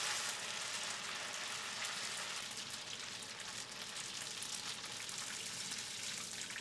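A handful of cooked rice noodles deep-frying in hot peanut oil (350°F), a steady sizzle with fine crackling as they crisp.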